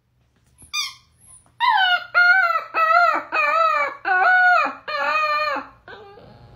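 Young liver-and-white spaniel howling: a short yip about a second in, then a run of six short, rising-and-falling howls with its head thrown back.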